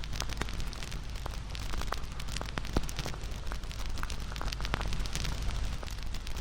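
Wood fire burning with a steady low rustle and dense irregular crackles and pops, one sharper pop a little before the three-second mark.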